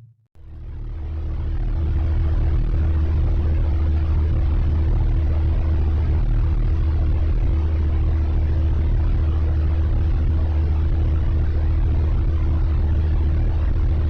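Sonified 'sound' of a star: a deep, steady rumble with a faint constant hum above it, fading in over the first two seconds.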